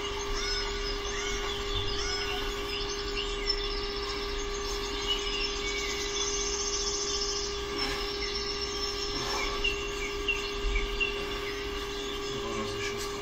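Small birds chirping repeatedly over a steady humming tone, with a few soft knocks.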